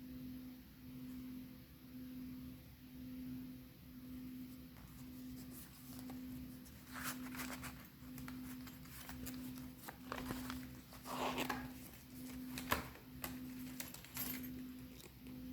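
Pages of a small ring-bound paper journal being turned and handled: papery rustles about seven seconds in and again around ten to eleven seconds, with a sharp click near the end. Under it runs a soft low hum that pulses about once a second.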